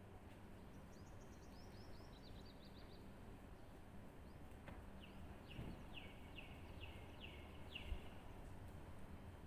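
A bird singing: first a quick run of short, high falling notes, then, about five seconds in, a slower series of about seven lower falling notes at roughly two a second. A faint steady hum lies underneath, with a soft low thump near the end.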